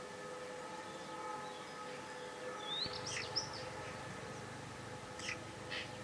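Faint bird calls: a quick rising and falling call a little before halfway, then two short chirps near the end, over a faint steady hum.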